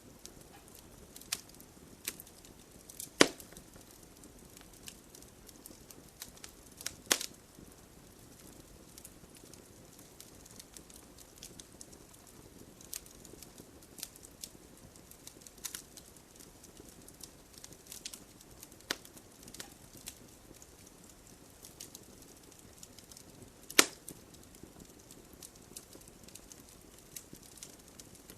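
Wood logs burning in a fireplace: a soft steady rush of flame with irregular crackles and sharp pops, a few of them much louder snaps.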